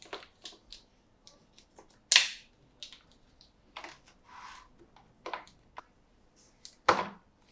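Toy packaging and a toy monster truck being handled in an unboxing: scattered small clicks and taps, two sharper snaps about two seconds in and near the end, and a brief scrape in the middle.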